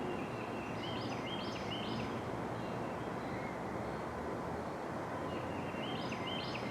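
Steady outdoor background noise with a songbird's short phrase of chirps twice, about a second in and again near the end.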